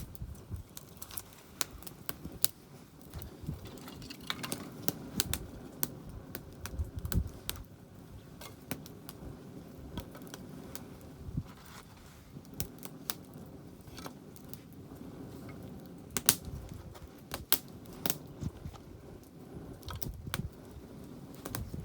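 Wood campfire crackling, with irregular sharp pops and snaps over a low steady rush of burning. The loudest pops come about two-thirds of the way in.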